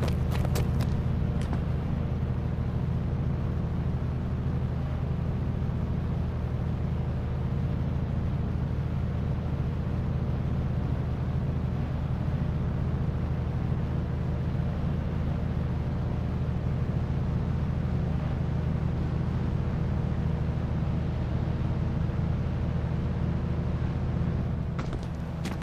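An engine or motor running steadily at a constant speed, a low even drone that does not change.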